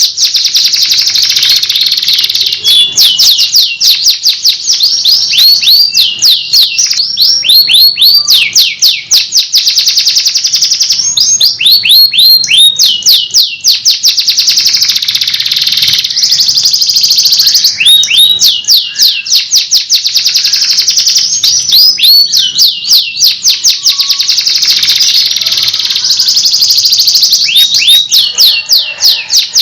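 Domestic canary singing a continuous song of rapid rolls and trills: runs of fast, evenly repeated high notes, each sweeping downward, that shift in speed and pitch every second or two without a pause.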